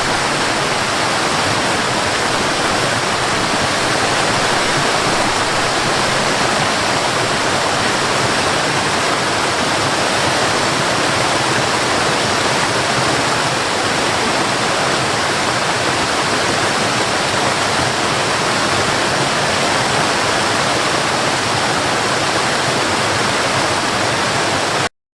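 Waterfall rushing steadily, an even wash of falling water; it stops abruptly near the end.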